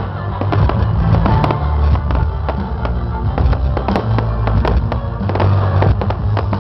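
A fireworks display: a dense, irregular run of sharp cracks and pops, several to the second, over music with a heavy bass line.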